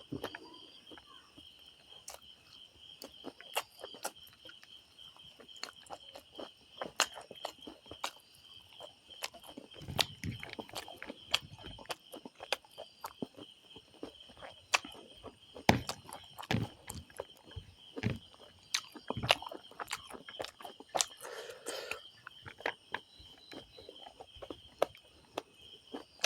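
A person eating rice and curry: scattered wet mouth clicks and chewing sounds, some louder than others, over a steady high chirring of insects.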